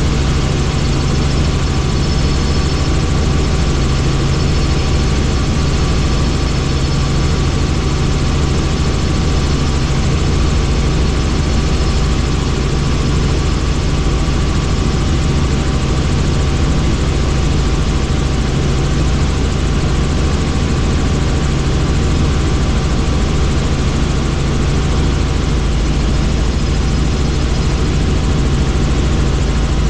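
Helicopter in flight: a loud, steady drone of rotor and engine noise with a low hum and a few constant tones, unchanging throughout.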